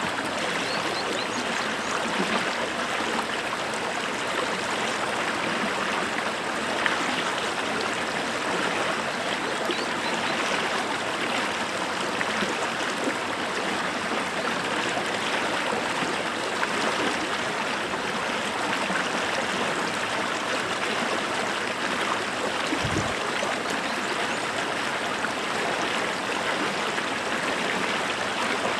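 A creek flowing steadily over rocks, a constant rush of running water.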